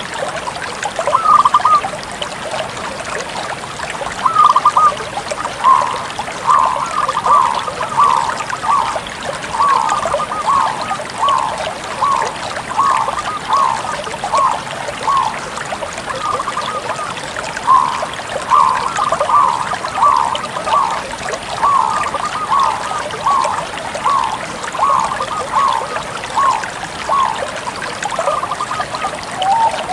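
Bangkok-type zebra dove (perkutut) cooing: a long, steady run of short, curling coo notes at the same pitch, about one or two a second, over a steady hiss.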